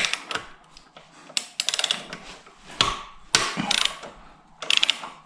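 Socket ratchet wrench clicking in four short runs of rapid clicks, as it works the 14 mm bolts that hold a motorcycle's side stand loose.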